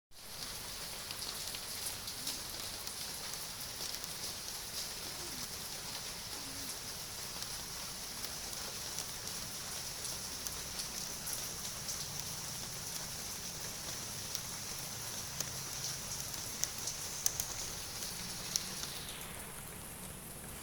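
Light drizzle falling, with scattered drops ticking on surfaces. A steady high-pitched buzz runs over it and falls away about a second before the end.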